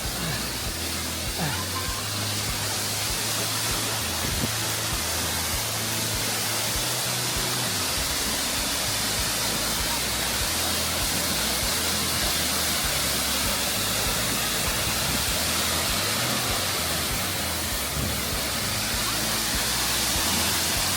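Steady rushing of Hickory Nut Falls, a waterfall, mixed with background music that has a low bass line stepping from note to note.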